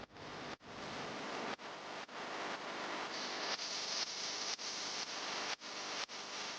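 Steady hiss of static-like noise, broken by brief dropouts every half second to second and a half.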